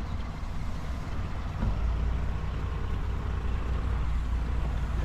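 A vehicle engine running at low speed with a deep, steady rumble that grows louder about a second and a half in.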